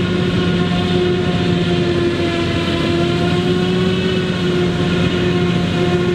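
Claas Jaguar 980 forage harvester's V12 engine and chopping machinery running steadily: a loud, even drone with a hum of several steady tones layered over it.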